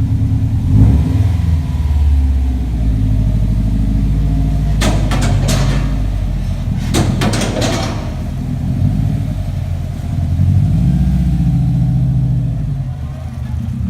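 Subaru WRX hatchback's turbocharged flat-four engine running loud through an exhaust with the catalytic converter removed, idling with its pitch shifting up and down a few times as it is revved lightly. Two clusters of sharp clicks come about five and seven seconds in.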